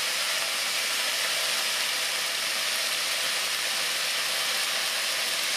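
Stir-fry of dried acorn jelly strips and vegetables sizzling steadily in a hot stainless steel pan, with freshly added soy sauce hissing and steaming on the hot metal.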